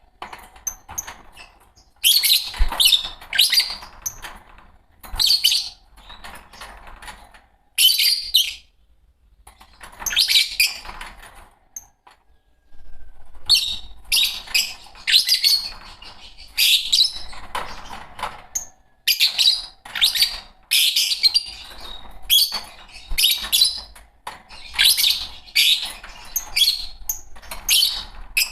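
A pair of Fischer's lovebirds chirping: shrill, high-pitched calls in rapid clusters of a second or two, with short pauses between them and a longer lull about halfway through.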